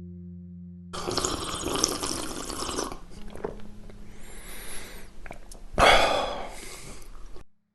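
Sound of running and splashing water that starts about a second in, dies down with a few drips, then surges briefly and cuts off near the end, over a low steady hum.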